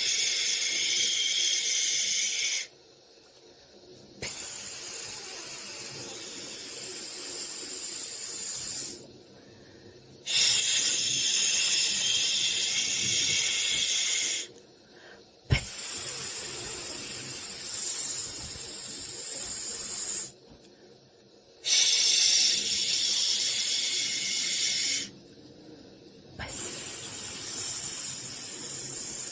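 Soothing white-noise hiss for babies, high and airy, swelling in six long pulses of about three to five seconds each, with short dips of about a second and a half between them.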